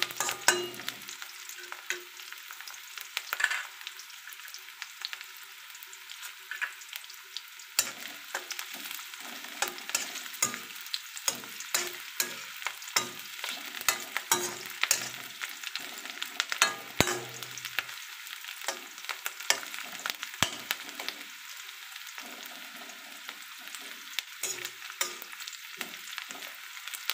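Big pieces of onion sizzling in hot oil in a kadai, with a utensil scraping and clicking against the pan as they are stirred. The clicks are sparse for the first several seconds, then come quick and frequent.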